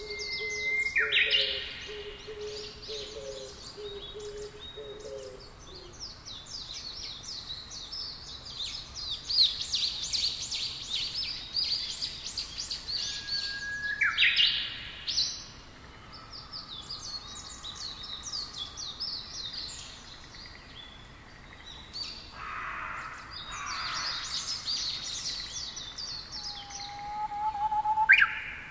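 Many birds chirping and singing in rapid trills, with rising whistled calls about a second in and again midway. A low, repeated call pulses under them for the first several seconds.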